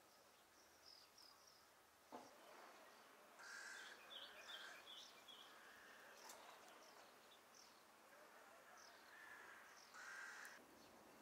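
Faint birds calling: many short, high chirps, with two louder calls about three seconds in and near the end, and a brief click about two seconds in.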